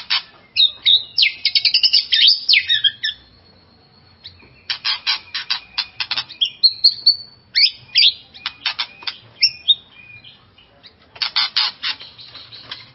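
White-rumped shama (murai batu) singing a fired-up provocation song: four bursts of rapid, loud chattering notes mixed with short whistles, separated by brief pauses.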